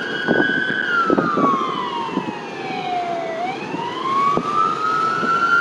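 Fire department vehicle's electronic siren in wail mode, its pitch falling slowly for about three seconds and then rising again.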